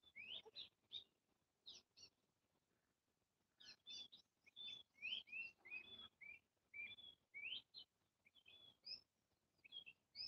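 Faint birds chirping: many short, quick notes, some rising and some falling in pitch, with a pause of about a second and a half about two seconds in.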